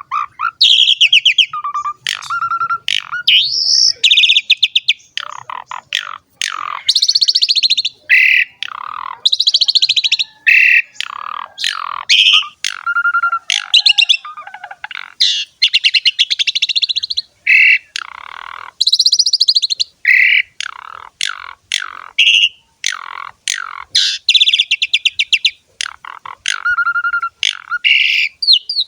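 Asian pied starling (jalak suren) singing loud and without pause: a fast, varied string of buzzy rattling phrases mixed with short whistled and chattering notes.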